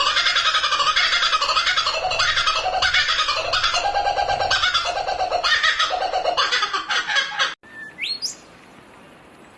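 Songbird chirping in rapid, repeated phrases. It cuts off abruptly about three-quarters of the way through, and a few short, rising chirps follow over quieter background hiss.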